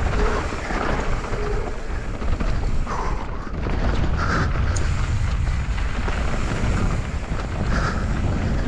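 Wind rushing over the action camera's microphone as a YT Capra mountain bike rolls fast down a damp dirt trail, its knobby tyres running on the tacky ground.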